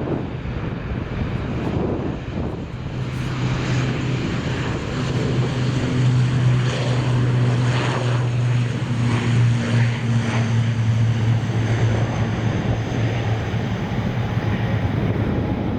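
Turboprop airliner passing at the airport, its engines and propellers giving a steady low tone over a broad rush that builds a few seconds in and eases near the end.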